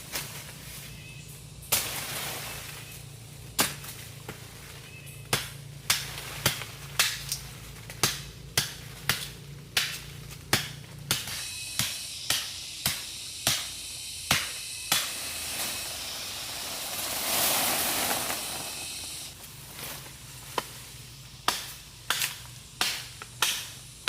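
A hand tool striking repeatedly in a steady rhythm, about one and a half blows a second. Midway the blows pause for a few seconds of swelling rushing noise, then start again.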